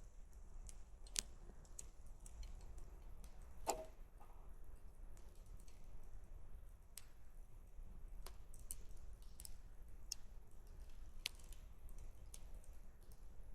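Wood campfire crackling: sparse, irregular sharp pops and snaps, with a slightly louder one about four seconds in, over a faint low rumble.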